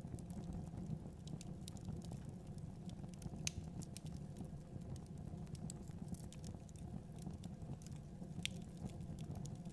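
Wood fire crackling: irregular sharp snaps and pops over a low, steady rumble of burning, with a couple of louder pops.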